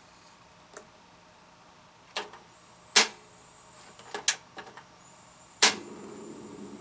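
A series of sharp clicks and knocks, the loudest about three seconds in and near the end. After the last knock a low steady hum sets in.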